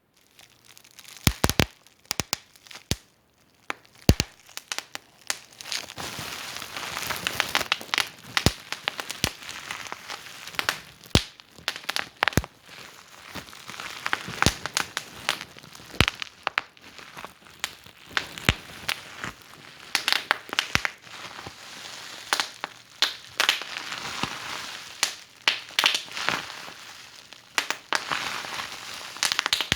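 Fireplace fire crackling: many sharp, irregular pops and snaps over a steady hiss.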